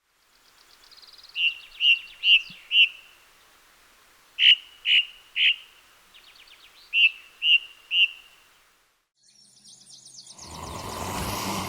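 A songbird singing in repeated phrases, each a quick buzzy trill followed by three or four loud, clear whistled notes. Near the end a rising, rasping noise of another sound begins.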